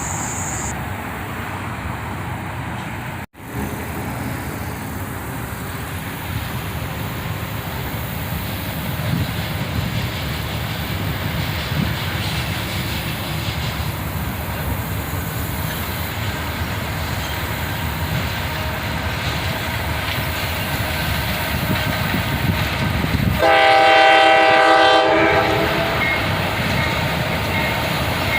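Norfolk Southern GE AC44C6M diesel locomotive approaching, its engine and rail noise building steadily. Near the end the locomotive's air horn sounds one blast of about two seconds, the loudest sound.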